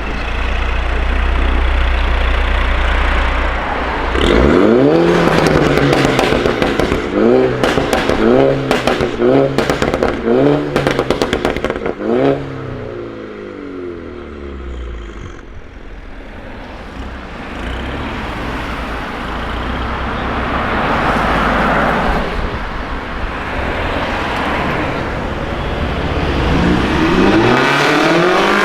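Mini Cooper S four-cylinder engine breathing through a Fi Exhaust decat downpipe exhaust: it idles, then is blipped in a quick series of about eight revs, crackling and popping between them. The engine then settles quieter, and its revs climb again near the end.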